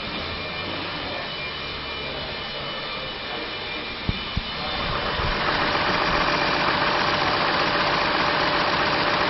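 Chevrolet Trailblazer's 4.2-liter inline-six engine idling steadily. Two sharp clicks come about four seconds in, and from about five seconds on the engine sound is louder and fuller.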